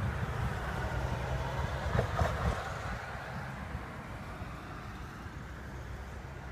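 Rolling thunder, a low rumble that fades away over several seconds, with a brief knock about two seconds in.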